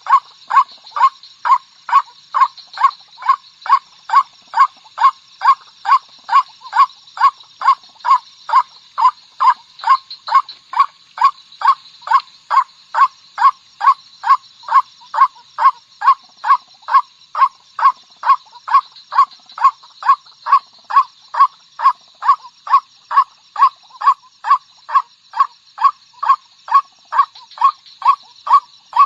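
White-breasted waterhen lure call: a loud, regular series of calls repeated about twice a second without a break, over a faint steady high-pitched background.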